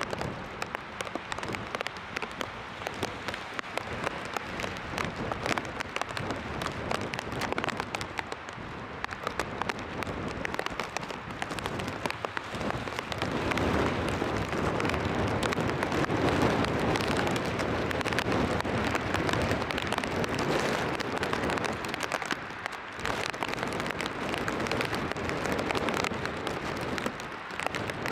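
Stormy-weather noise, wind and rain on the microphone: a dense crackling rush that grows louder about halfway through and eases back near the end.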